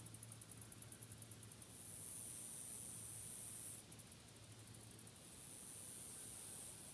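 A very high-pitched insect song that switches between rapid pulsing and a steady buzz, each phase lasting a second or two. A faint steady low hum runs underneath.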